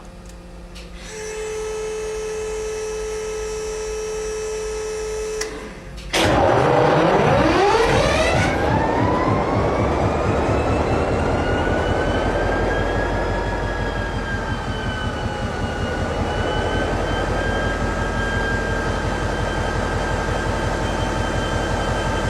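Cold start of a locomotive's 16-cylinder diesel engine. A steady humming tone lasts about four seconds. Then, about six seconds in, the engine starts with a sudden loud burst, whines upward in pitch for several seconds, and settles into a steady idle.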